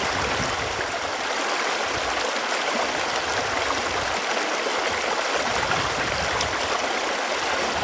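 Running water flowing steadily, an even rushing with no breaks.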